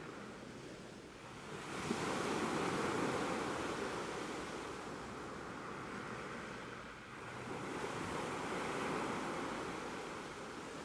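Ocean waves washing in: two swells of surf, the first building about two seconds in and the second about seven and a half seconds in, each easing off again.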